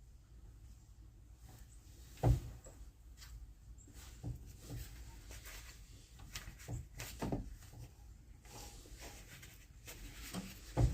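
Handling noises from work on a tractor's joystick cable: scattered knocks, clicks and rustles, with a sharp thump about two seconds in and another near the end.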